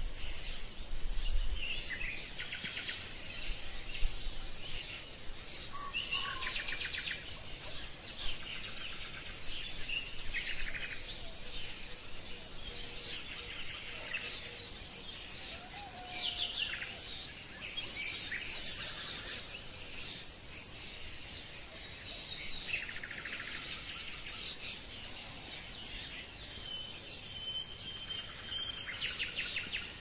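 Songbirds chirping and trilling: a busy chorus of quick repeated trills and short calls, with one held whistled note near the end.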